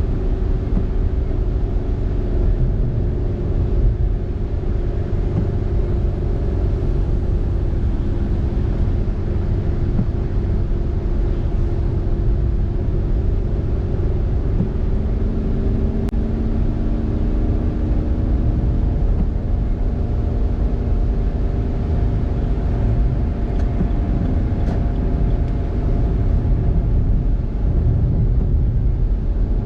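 Car driving on a road: a steady low road rumble with an engine hum that drifts slowly up and down in pitch.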